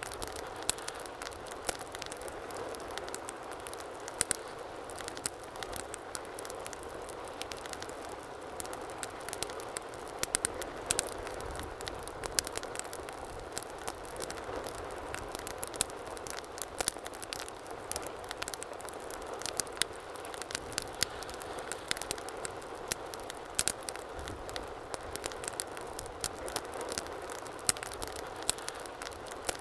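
Wood fire burning in a fireplace, with a steady low hiss of flames and frequent irregular sharp crackles and pops.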